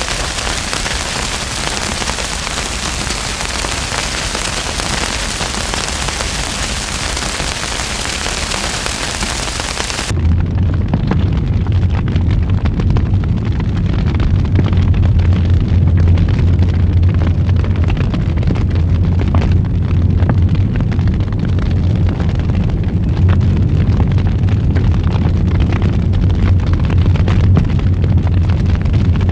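Wood fire in a fireplace burning: a dense crackling hiss, then about ten seconds in the sound changes abruptly to a deeper, steady low roar with sharp crackles and pops over it.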